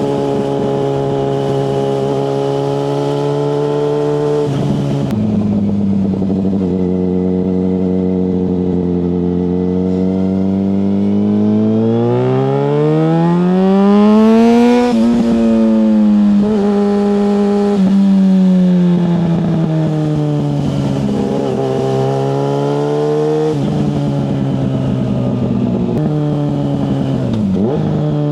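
Yamaha FZ6 S motorcycle's 600cc inline-four engine under way: the revs hold steady, climb smoothly to a peak about halfway through, then drop in several sudden steps as it changes gear.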